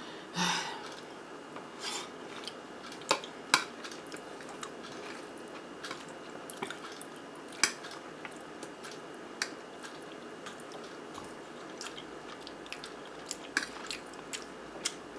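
A person chewing and eating zucchini boats with melted cheese, with irregular wet mouth clicks and a few sharper clicks scattered through.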